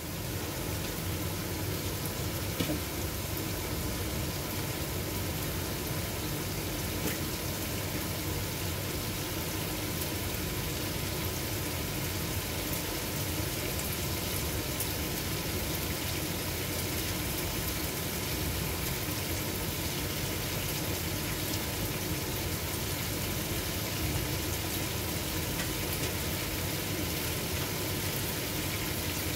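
Chicken curry sizzling steadily in a stainless steel pot on the stove, with a few small pops.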